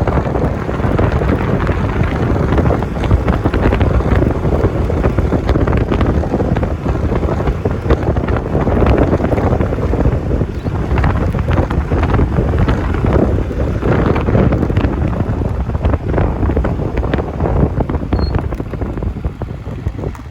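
Heavy wind buffeting on the microphone: a loud, steady, low rumble of noise.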